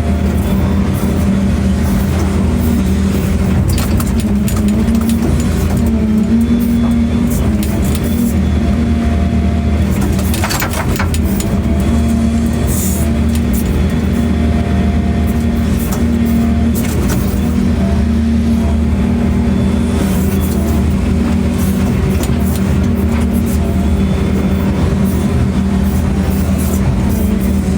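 Excavator diesel engine running steadily as it digs and loads, with a few short knocks about ten seconds in.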